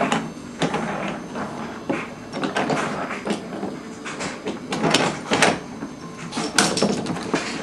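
Irregular knocks and clatter of toy trains and pieces being banged, dropped and thrown around a children's train table.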